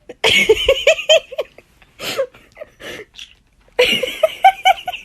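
Laughter: two runs of quick, repeated 'ha-ha-ha' notes, one starting just after the beginning and one about four seconds in, with a couple of short sounds between them.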